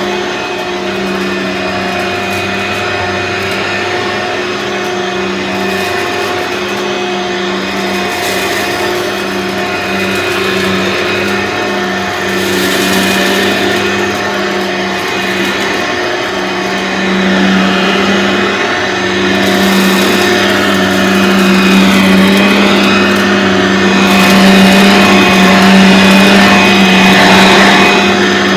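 Aeros U162C upright vacuum cleaner running steadily, its motor making a constant hum and whine that holds one pitch. It grows louder in the second half.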